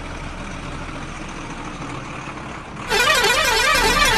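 A red toy dump truck's electronic sound effect: about three seconds in, a loud, siren-like warble from its small speaker, the pitch rapidly sweeping up and down. Before it there is only a steady low background noise.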